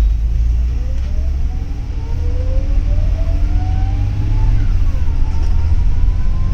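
Double-decker city bus heard from inside while it accelerates: a low engine rumble with a whine that rises in pitch, dips once near the end and rises again.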